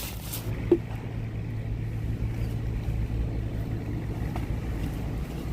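A boat's engine running steadily, a low hum, with a single short knock just under a second in.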